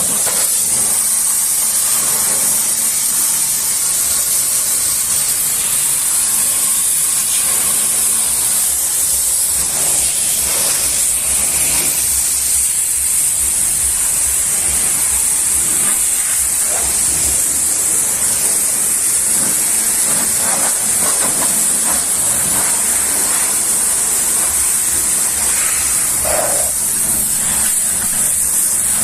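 High-pressure washer jet spraying steadily, a continuous loud hiss, with a faint steady hum underneath.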